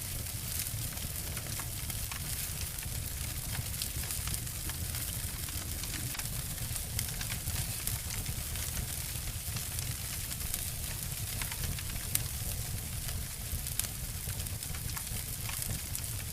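Wood fire crackling and snapping: a steady hiss over a low rumble, with frequent small pops and one sharper snap about twelve seconds in.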